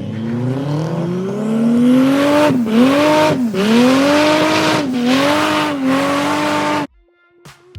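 Car engine revving hard, its pitch climbing steadily for a couple of seconds and then holding high with four brief dips and recoveries, cut off suddenly near the end.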